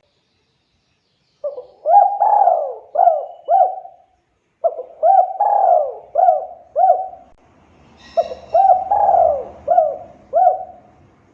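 Spotted dove (tekukur) cooing: three phrases of about five rolling coos each, a second or so apart, the first starting about a second and a half in.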